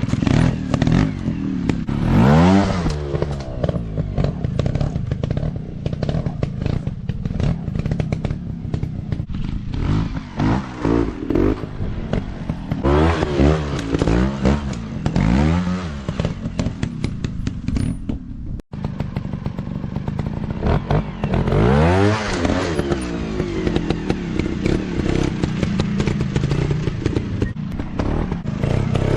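Off-road dirt bike engines revving hard and easing off again and again, the pitch rising and falling with each burst of throttle, over a run of short knocks.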